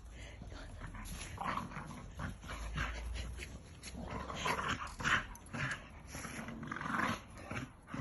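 Two dogs play-fighting, with irregular bursts of playful growling that get louder and more frequent about halfway through.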